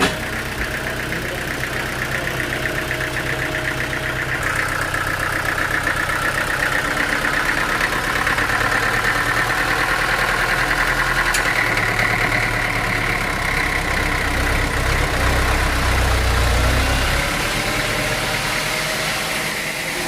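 Sawmill machinery with an engine running steadily. A higher-pitched band of mechanical noise joins it about four seconds in, and a deeper surge builds about two-thirds of the way through before dropping away near the end.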